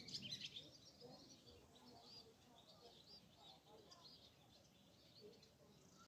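Faint, high-pitched chirping of small birds: a quick run of chirps in the first half-second, then sparser, quieter chirps.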